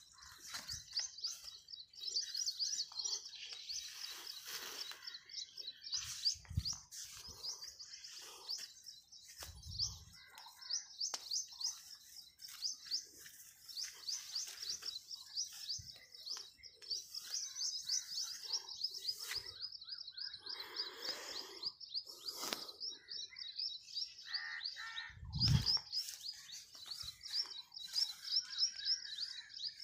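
Continuous rapid, high-pitched bird chirping, with leaves brushing against the phone now and then and a few dull bumps, the loudest about three-quarters of the way through.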